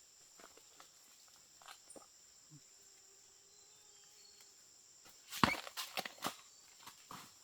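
A steady high insect drone underneath a few faint scattered clicks, then a cluster of louder knocks and rustles about five and a half seconds in.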